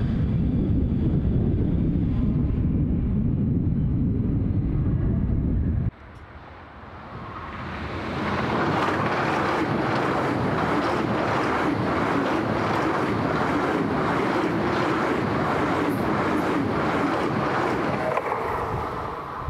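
A low rumble with wind on the microphone, then, from about six seconds in, an ICE high-speed train passing close at speed. Its sound swells over a couple of seconds into a steady rushing of wheels and air as the carriages go by.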